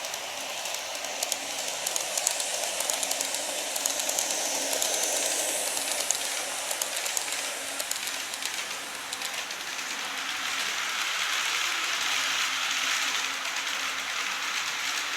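Model train running along the track: a steady rolling hiss from the wheels with many small rapid clicks as they pass over rail joints.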